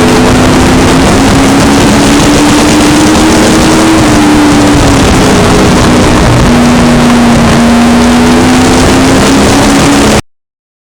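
Sport trucks racing around a short oval, engines running loud with a pitch that rises and falls as they lap. The sound cuts off abruptly about ten seconds in.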